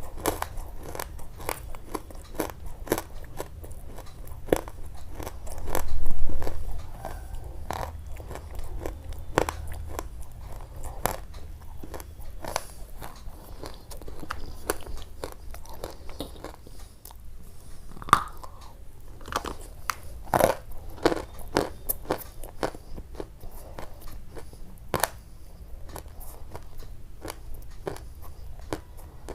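Close-up crunching: a dense run of short, crisp crunches and clicks, as in biting and chewing something crunchy, with a louder low bump about six seconds in.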